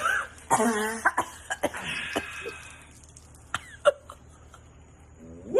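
People coughing and sputtering while chugging cans of beer, with short strained vocal noises in between.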